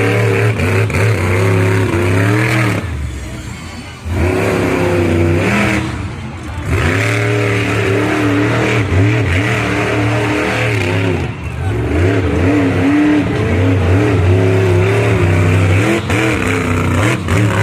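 Monster truck engine revving hard and easing off again and again, its pitch sweeping up and down, with short lulls about three to four seconds in, around six seconds and around eleven seconds.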